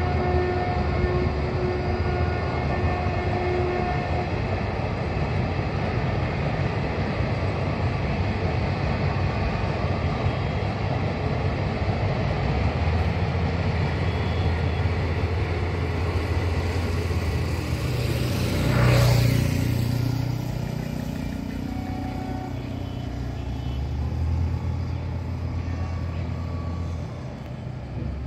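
Passenger train running past, a steady rumble of wheels on track. A steady tone sounds for the first few seconds, and about two-thirds through a louder pass-by swells and fades, sweeping in pitch.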